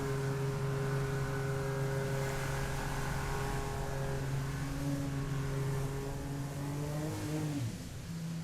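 Outboard jet motor of an inflatable jet boat running steadily at speed, then near the end the throttle comes off and the engine pitch falls as the boat slides to a stop.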